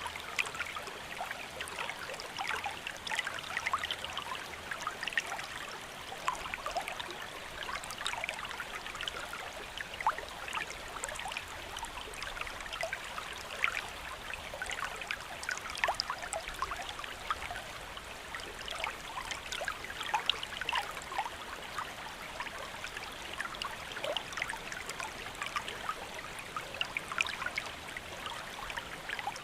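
Steady rain falling, a constant wash of water with many separate drops ticking irregularly through it.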